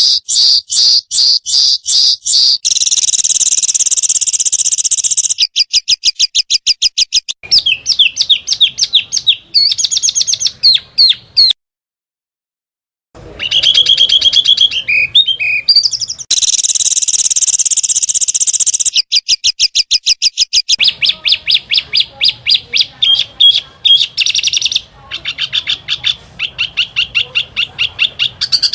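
Small songbirds calling in rapid, high-pitched bursts of repeated sharp notes and long buzzy trills, edited together back to back, with a break of silence about twelve seconds in.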